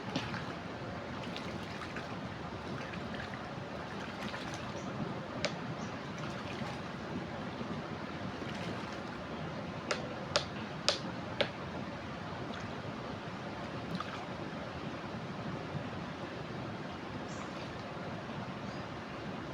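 Floodwater rushing steadily over a river weir. A few sharp clicks come about halfway through.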